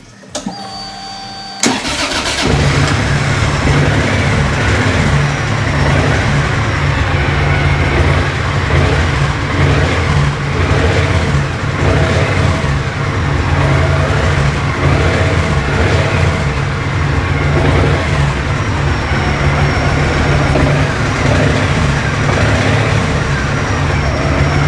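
2010 Triumph Thunderbird 1600's parallel-twin engine: the starter whines for about a second and a half, then the engine catches and idles steadily.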